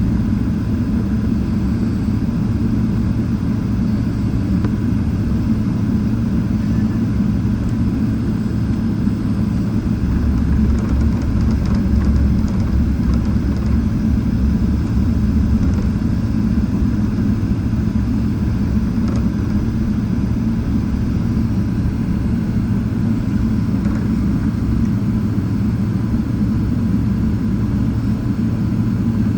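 Boeing 777-300ER with its GE90 engines running, a steady low rumble with no sudden events; the low rumble grows slightly heavier for several seconds about a third of the way in.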